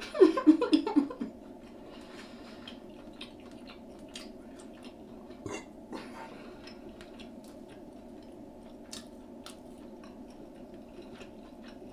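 Close-miked chewing and biting of deep-fried, battered seafood: scattered small crunches and mouth clicks over a steady low hum, with a brief voice at the very start.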